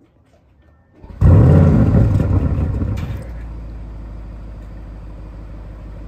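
Audi C8 RS7's twin-turbo 4.0-litre V8 on its stock exhaust, before a resonator delete, starting up about a second in with a loud flare of revs, then settling within about two seconds to a steady idle rumble.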